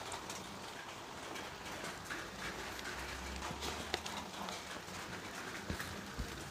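Close mouth sounds of a man eating with his hands: chewing with faint wet smacks and clicks, a sharper click about four seconds in.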